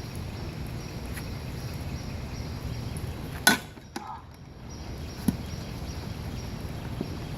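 A bat strikes a baseball off a batting tee with one sharp crack about three and a half seconds in, and a fainter click follows nearly two seconds later. A steady hiss of rain runs underneath.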